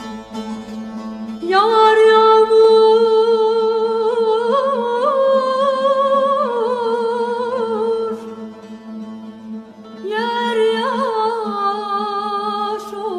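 Turkish zeybek folk music: a held, wavering melody line with ornaments over a steady low drone, entering about a second and a half in and coming back after a short dip near the end.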